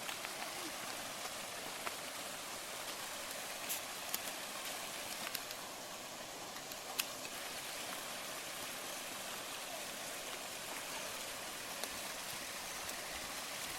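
Steady hiss of running water, with a few short sharp clicks scattered through it.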